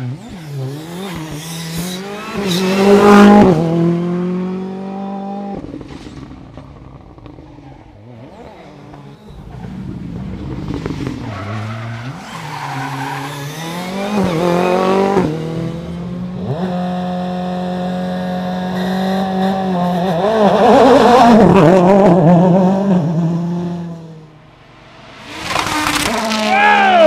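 Rally cars passing at speed on a stage, engines revving hard and dropping between gear changes, with several loud passes one after another. The last pass ends in a sharp fall in pitch as the car goes by.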